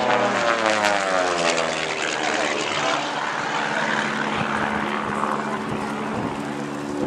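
Van's RV-8 propeller aircraft flying past, the engine and propeller note falling in pitch over the first couple of seconds as they pass, then settling into a steady drone.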